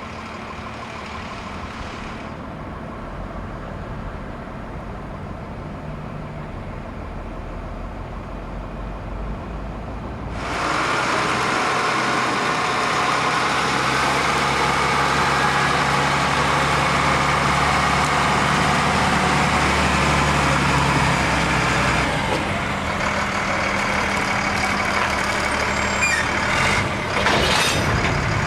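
Diesel locomotive running with a steady low engine drone, growing much louder about ten seconds in and staying loud.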